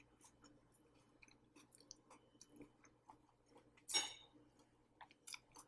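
Quiet chewing of a mouthful of fried rice, with faint scattered mouth clicks, and a brief louder scrape of a metal fork on the ceramic plate about four seconds in.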